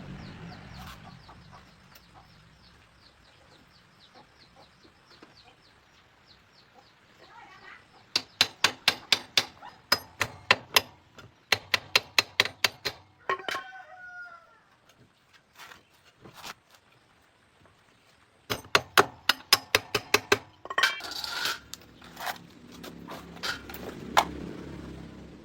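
Two runs of rapid sharp taps, about four a second, from work on the punctured motorcycle tyre. A chicken clucks once between them.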